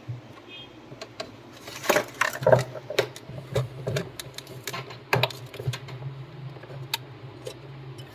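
Irregular clicks and knocks of small hard objects being handled, densest in the middle and tapering off near the end, over a steady low hum.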